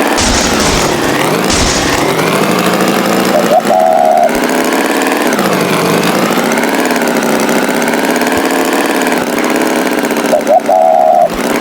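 Tractor engine running, its pitch rising and falling. A short high tone sounds twice, once a few seconds in and again near the end.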